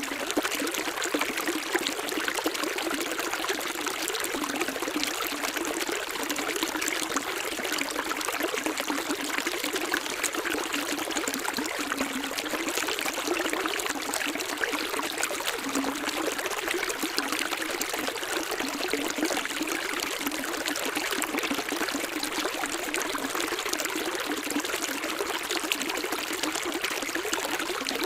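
Running water of a stream, flowing steadily with a trickling, pouring sound.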